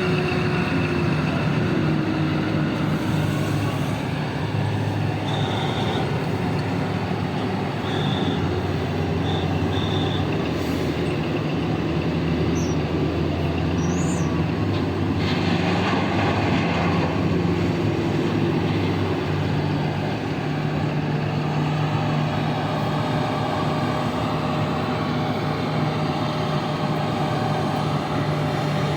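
Heavy diesel engines of mining machinery, a 994 loader and Belarusian haul trucks, running steadily, with a few short high beeps about a third of the way in and a rush of noise lasting about two seconds near the middle.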